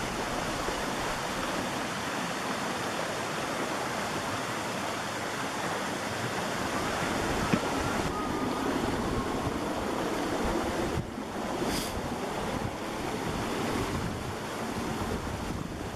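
Steady rushing noise of wind buffeting the microphone, over flowing creek water, with a brief dip about eleven seconds in.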